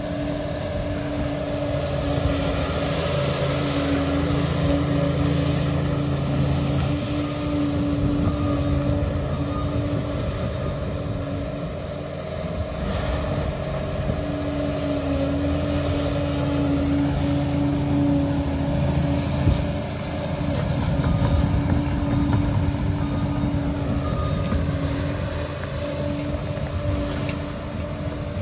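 Liebherr PR 746 crawler dozer's diesel engine running steadily while working, with a constant hum over a low rumble that swells and eases slightly in level.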